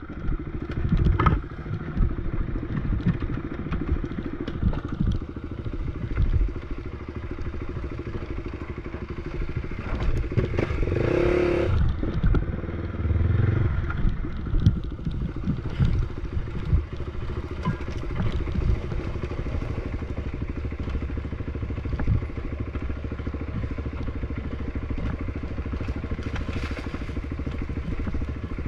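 Off-road bike engine running on a trail ride, with a brief rise in revs about eleven seconds in, over steady clatter and knocks of the machine bouncing across rough ground.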